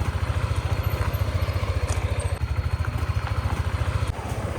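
Vehicle engine running steadily with a fast, even pulse, briefly dipping near the end.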